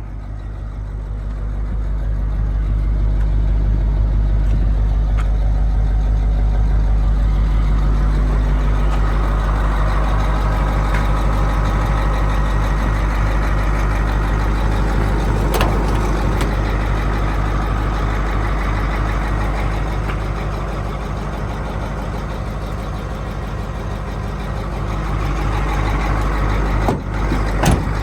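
Caterpillar 3208 V8 diesel of a Kodiak fuel truck running with a steady low rumble, growing louder over the first few seconds, easing a little later on and picking up again near the end. A sharp click comes about halfway through and another near the end.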